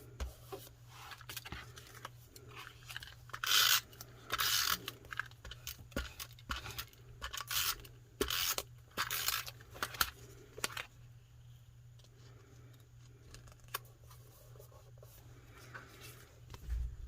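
Paper and card being handled for a junk journal page: several short rustles and scrapes of paper, each about half a second, mostly between about three and eleven seconds in.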